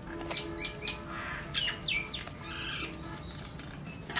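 Small birds chirping in the background: a quick string of short falling chirps.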